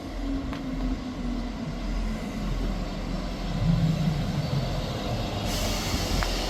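ScotRail Class 158 diesel multiple unit standing at the platform with its diesel engine idling. About five and a half seconds in, a strong hiss of compressed air starts and keeps going, typical of an air brake or door air release.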